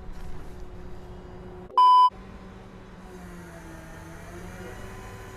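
A short, loud, pure beep tone of about a third of a second, just under two seconds in, the kind of 1 kHz bleep used to censor a word, over a faint steady background hum.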